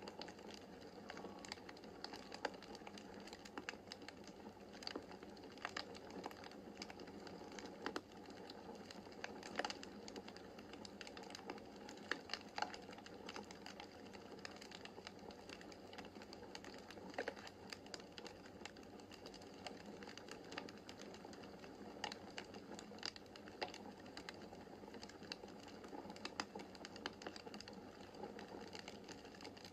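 Faint wood fire in a fireplace crackling: irregular sharp pops and snaps of burning logs over a soft, steady hiss of flames.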